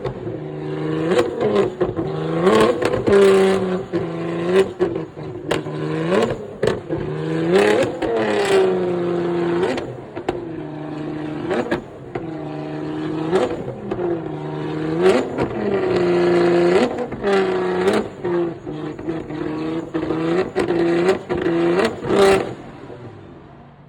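Sports car engine revved again and again in short throttle blips, its pitch rising and falling each time, with sharp cracks in between. It settles to a steady idle near the end.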